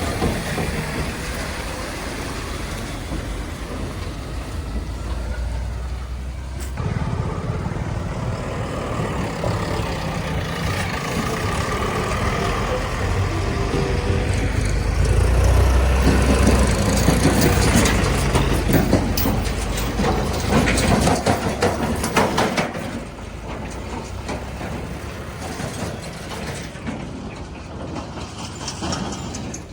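Heavy diesel machinery running: the engines of an earthmover and trucks at a loading site. The sound grows louder toward the middle, with a spell of rattling and clanking, then eases back down.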